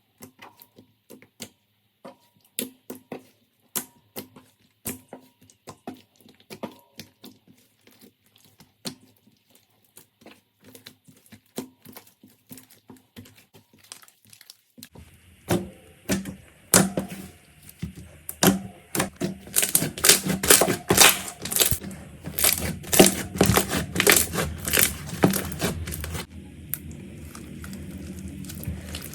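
Slime being handled, giving sparse sharp clicks and crackling pops; about fifteen seconds in it turns much louder and denser, a quick run of crackles over a steady low hum.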